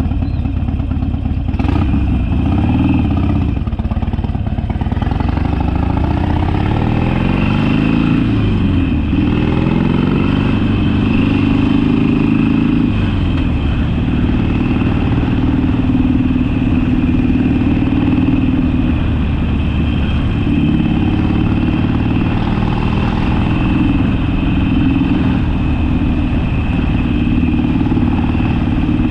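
Harley-Davidson Sportster's V-twin engine running on the move, its revs rising and dropping several times in the first dozen seconds, then holding steadier.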